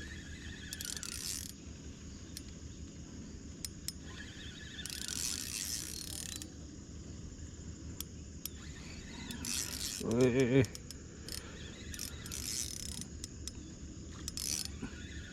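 Small spinning reel cranked in several short bursts, a mechanical ratcheting whir, as line is wound in. About ten seconds in comes a brief, louder pitched sound with a wavering pitch.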